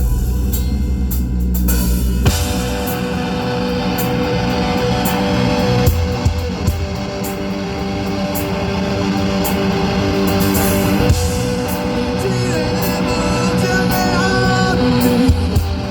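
Rock band playing live: a sustained low bass drone, then the full band comes in about two seconds in, with guitars and a drum kit keeping a steady beat.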